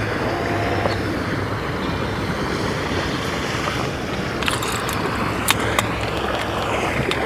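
Boat motor running steadily under the rush of wind on the microphone, with a few sharp clicks a bit past halfway.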